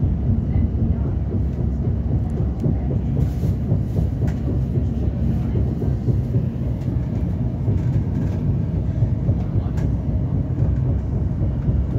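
Steady low rumble of a train running along the track, heard from inside the carriage, with a few faint clicks.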